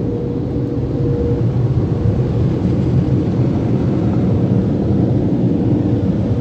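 AVW car wash tunnel equipment running: a loud, steady rumble with a faint steady hum above it.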